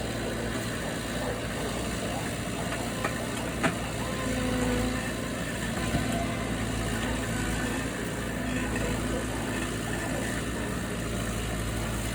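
A motor engine idling steadily, with a couple of sharp knocks partway through.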